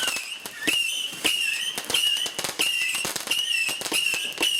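A firework going off: a high whistling tone that breaks and restarts every half second or so, over dense crackling.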